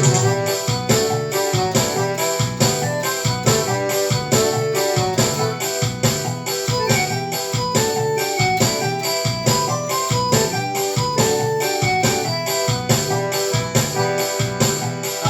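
Forró instrumental played on a Casio MZ-X500 arranger keyboard: a keyboard melody of held notes over the instrument's automatic rhythm, with a steady, even beat.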